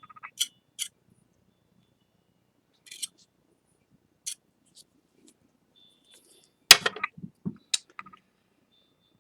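A few small, sharp clicks and taps from handling a tool and broken ceramic plate pieces on a work surface, with a louder cluster of knocks about seven seconds in.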